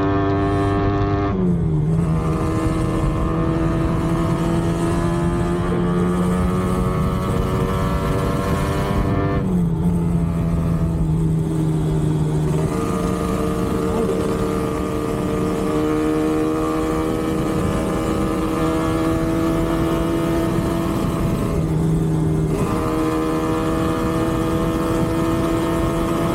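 Yamaha RD250 two-stroke twin engine running under load on the road. Its pitch climbs slowly in each gear and drops sharply as gears change, about one and a half, nine and a half and twenty-two seconds in. The carburettor needles are raised one notch, a setting that made the running worse.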